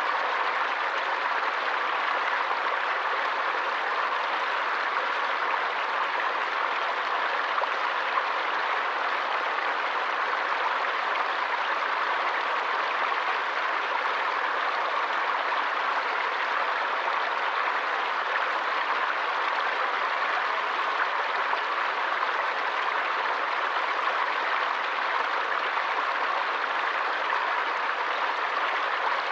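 Forest stream rushing steadily: an even, unbroken wash of flowing water with no single splash or drop standing out.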